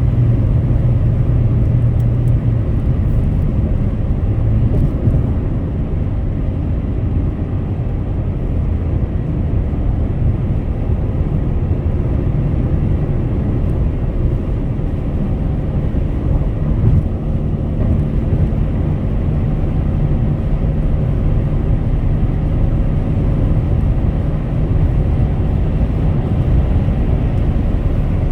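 Car driving at highway speed: steady low road and tyre rumble with a faint engine hum underneath.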